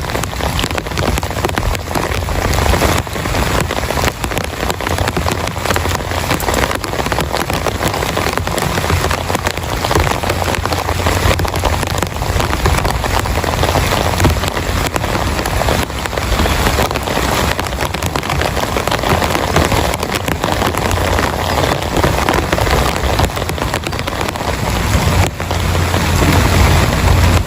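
Heavy rain falling steadily, a dense hiss of drops, with a low rumble underneath that swells near the end.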